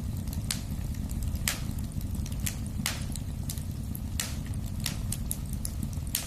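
Wood fire burning in a fireplace: a steady low rumble of the flames with irregular sharp crackles and pops from the burning logs, the strongest about one and a half, three and four seconds in.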